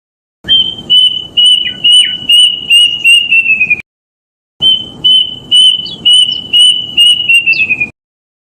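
Kedasih cuckoo singing two phrases of repeated clear whistled notes, about eight to nine notes each. The notes come quicker and drop slightly in pitch at the end of each phrase.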